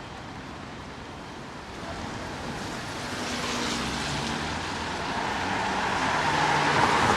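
A car passing on a wet street: tyre hiss and a low engine hum build over a few seconds to a peak near the end, over a steady wash of rain noise.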